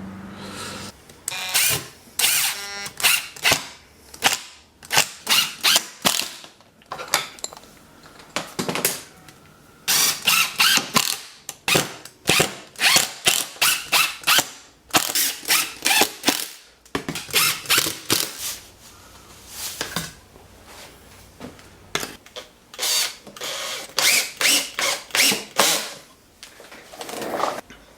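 Hand-tool work on a homemade mini lathe's drill mount and adjusting block: runs of sharp clicks, several a second, with short pauses between.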